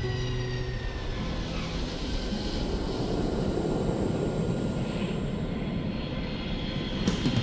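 An airplane passing overhead: a steady rushing engine sound that swells towards the middle and then eases off.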